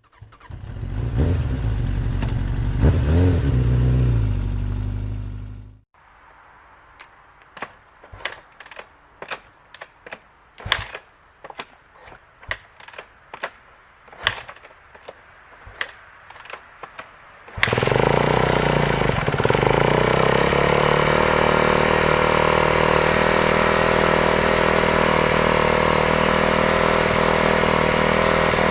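Cold start of a 2012 Kawasaki KX250F's single-cylinder four-stroke engine. A loud opening sound with a wavering pitch cuts off abruptly about six seconds in. About a dozen seconds of sharp, irregular clacks follow. Then the engine catches suddenly and settles into a steady idle.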